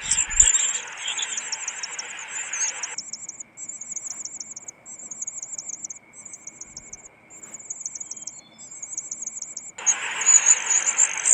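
Rapid, very high-pitched chirping in repeated trains about a second long. Under it is a hiss that cuts off about three seconds in and comes back near the end; in between, a faint steady whine.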